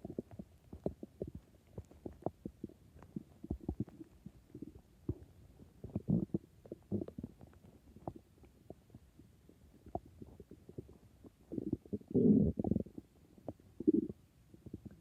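Human stomach growling: irregular gurgles, squelches and pops, with a louder, longer rumble about twelve seconds in and a short one near the end.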